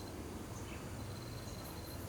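Red-whiskered bulbul giving a couple of faint short chirps between song phrases, over a steady low hum and a thin steady high-pitched tone.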